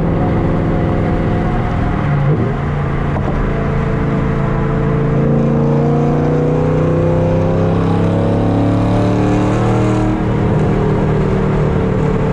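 5th-gen Camaro SS's LS3 V8 running through a loud long-tube-header exhaust at a steady drone. Its pitch shifts about two seconds in, climbs slowly under light acceleration, then drops near the end as it changes gear.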